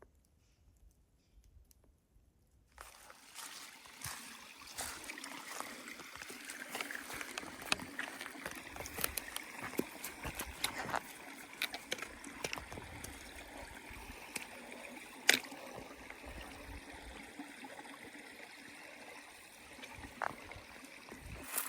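Water running and trickling over rocks in a small stream, with scattered little splashes. It starts abruptly about three seconds in, after near quiet.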